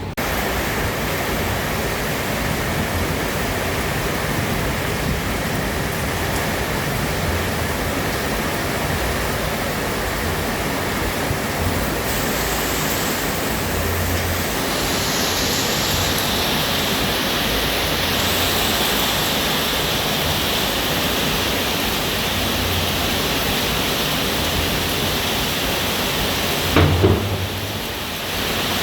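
Steady rain falling, an even hiss that grows brighter from about halfway through. A brief loud knock near the end.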